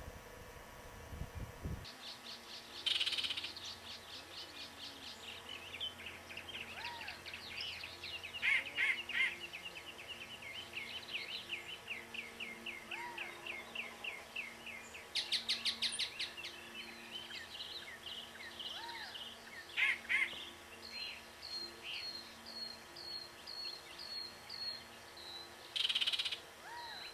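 Wild birds singing and calling: fast trills and rapid series of chirps, with louder bursts every few seconds, and a run of short, evenly repeated whistled notes near the end.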